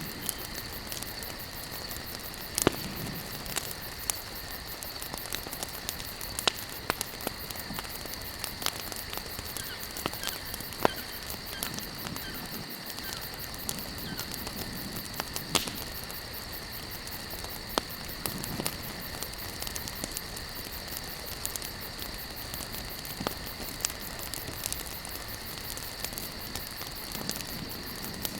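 Wood campfire burning and crackling: irregular sharp pops and snaps over a steady hiss, with a few louder pops standing out. A faint steady high-pitched drone runs underneath.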